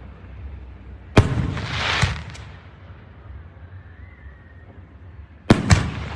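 Aerial fireworks bursting: a sharp bang about a second in, followed by a second of hissing crackle with another report and a small pop, then two bangs in quick succession near the end.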